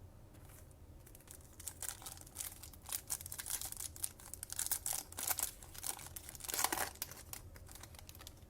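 A foil trading-card pack being torn open and its wrapper crinkled, heard as a quiet run of irregular crackles and rustles that starts about a second in and dies away near the end.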